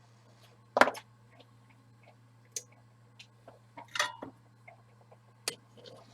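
Scattered sharp clicks and taps of small hand tools being handled and set down on a workbench, the loudest about a second in and a cluster around four seconds, over a faint steady low hum.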